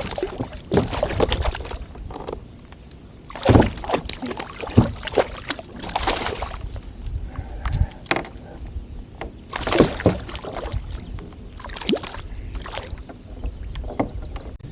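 Bending Branches kayak paddle dipping and pulling through the water, an uneven run of splashing strokes about every one to two seconds.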